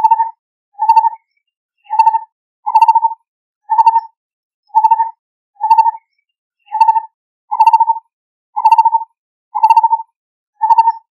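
Lineated barbet calling: a steady series of short, low notes, about one a second, repeated without pause.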